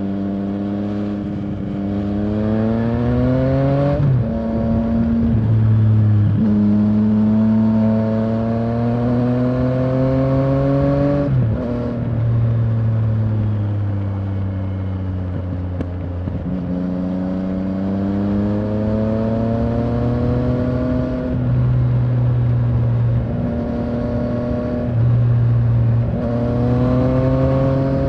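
Yamaha Tracer 900's three-cylinder engine running under way, climbing in pitch as the bike accelerates. The pitch drops sharply at gear changes about 4, 11, 16 and 27 seconds in, with a slow sag in pitch before the third change and steady cruising for a few seconds near the end.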